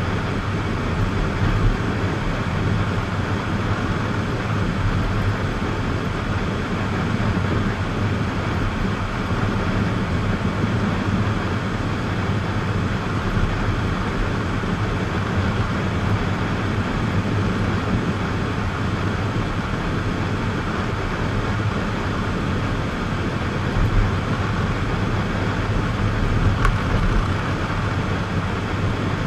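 Steady road and engine noise of a car being driven, a constant low rumble without breaks.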